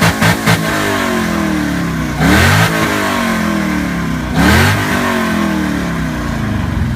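Car engine being revved: a run of quick stuttering pulses that stops about half a second in, then two sharp revs about two seconds apart, each rising quickly and falling slowly back toward idle.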